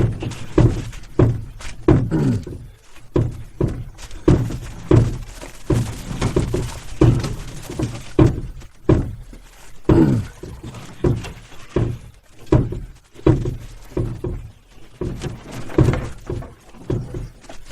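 Footsteps of a person carrying a canoe along a rocky portage trail, each step a dull thunk, a little over one a second.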